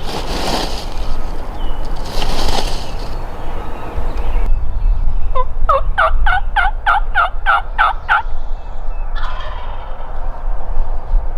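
A rushing noise that swells every couple of seconds cuts off abruptly, then a run of about ten evenly spaced turkey yelps, about three a second.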